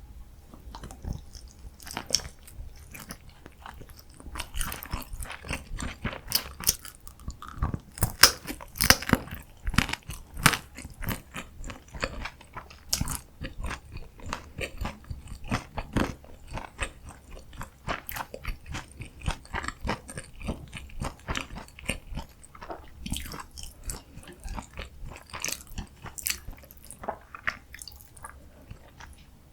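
Close-miked chewing and biting of food, with many sharp, irregular crunches and wet mouth clicks: ASMR eating of jjajang ramyun, green onion kimchi and kimchi dumplings.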